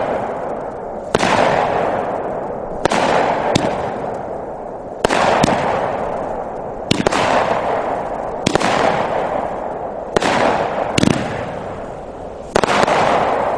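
Dominator 'It's A Boy' 200-gram aerial firework cake firing its shots one after another: a sharp report every one and a half to two seconds, a few of them doubled, each trailing off into a long fading echo of the burst.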